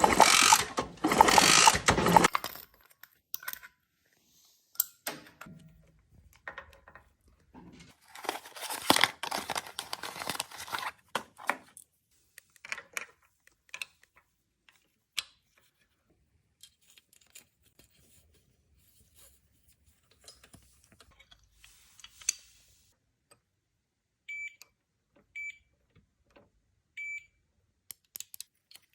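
Workshop handling noises: scattered clicks and knocks of metal tools and parts, two longer rustling rushes, and three short high electronic beeps near the end.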